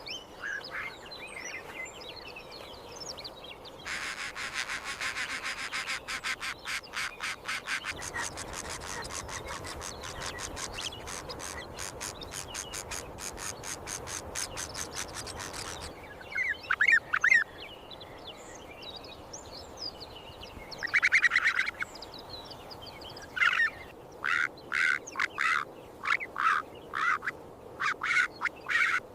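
Bird calls: a long run of rapid, harsh pulses, then short croaking calls in separate bursts, coming several in a row near the end.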